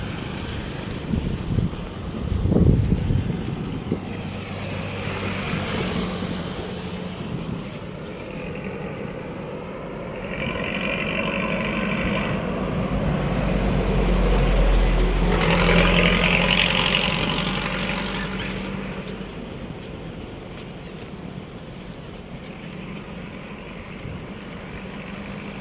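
Road traffic going by. A heavy vehicle's engine rumble builds, peaks and fades away again in the middle, over a steady low hum.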